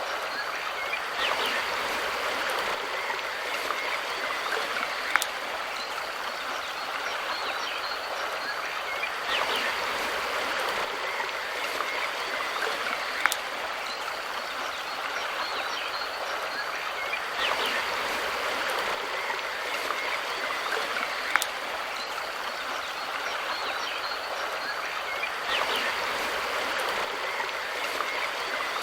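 Mountain river rushing steadily over stones. The same stretch of water sound repeats about every eight seconds, each time with a short sharp click.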